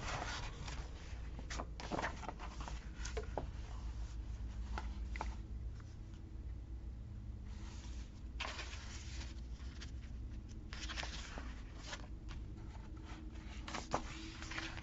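Paper and stickers being handled on a planner page: scattered light clicks and taps with patches of rustling, over a steady low hum.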